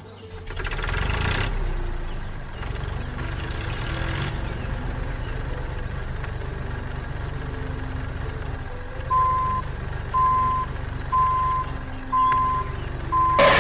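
Vehicle engine idling with a low, rhythmic rumble. From about nine seconds in, a reversing alarm beeps five times, about once a second. Near the end there is a short loud bang.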